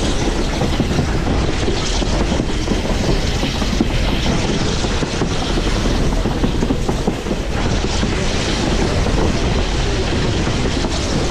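Passenger train rolling along the track at speed, with a steady loud rumble of steel wheels on rail and clickety-clack over the rail joints.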